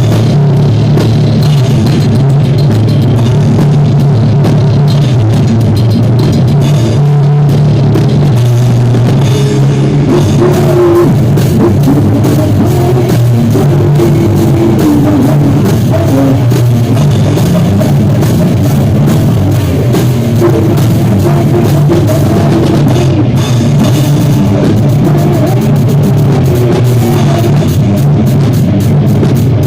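A live band playing through a song at rehearsal, with the drum kit prominent over heavy bass. The recording is loud throughout with a poor, overloaded sound.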